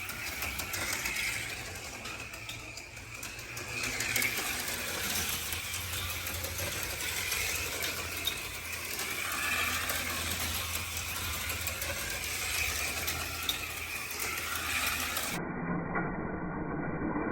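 HO scale slot cars running on a plastic track: small electric motors whirring steadily, with the rattle of the cars in the slot. About 15 seconds in the sound changes abruptly to a duller, narrower version.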